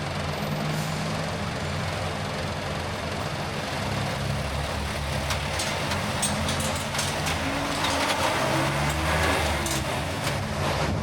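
Car engine running while driving, its hum slowly rising and falling in pitch over a steady road-noise hiss. A few sharp clicks come in the second half.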